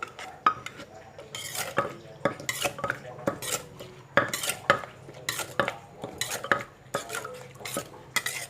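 Pestle pounding and mixing som tam ingredients in a mortar: irregular knocks about twice a second, with clinks of a spoon against the mortar.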